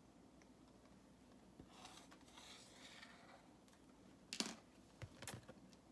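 Near silence: quiet room tone with a few faint rustles and small clicks, one a little louder about four seconds in.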